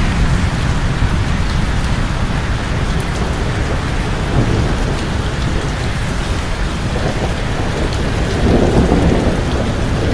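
Steady heavy rain falling, with a low rumble of thunder swelling briefly near the end.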